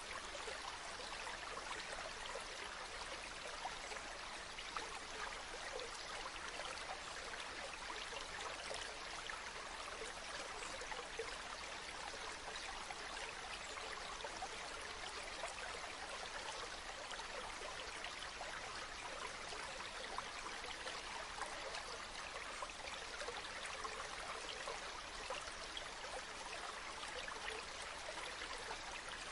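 Running water of a small stream: a steady, even babbling that carries on without a break.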